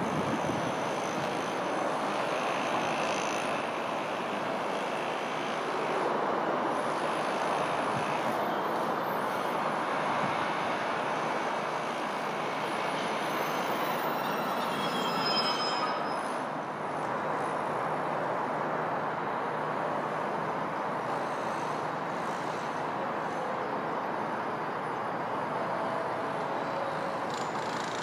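Diesel multiple-unit train, a Class 150 Sprinter, running steadily into and along the platform. About halfway through, brief high squeals come from its running gear as it passes close.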